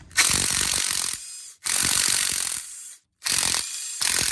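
Ratchet wrench ratcheting in three runs of a second or so each, with abrupt stops, as bolts are loosened to start an engine teardown.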